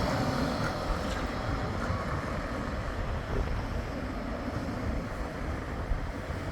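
A Bombardier Flexity 2 tram's running noise dying away in the first second as it moves off, leaving a steady low rumble of wind on the microphone.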